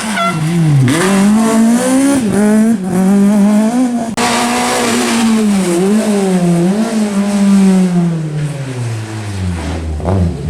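Renault Clio rally car driven hard on a stage, its engine note climbing and dropping again and again through gear changes and throttle lifts. Near the end the note falls steadily in pitch.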